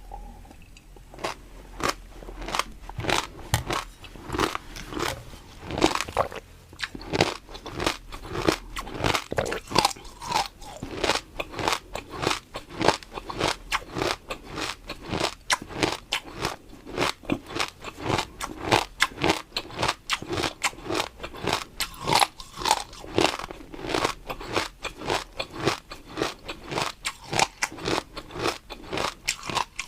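Close-up crunchy chewing of snack food: a steady run of crisp crunches, a few each second, with soft wet mouth sounds between them.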